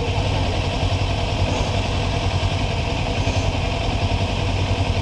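Kawasaki Ninja 400's parallel-twin engine idling steadily, with no revving.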